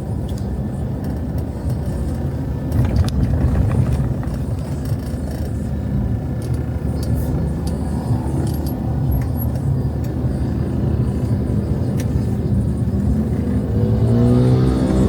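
Street traffic: vehicles passing with a steady low rumble, and near the end an engine comes close, its pitch rising.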